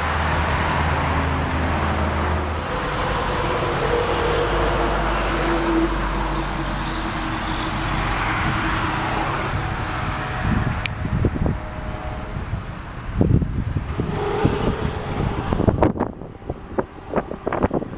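Steady motor-vehicle rumble and hum, like road traffic. In the last few seconds, wind buffets the microphone in uneven gusts.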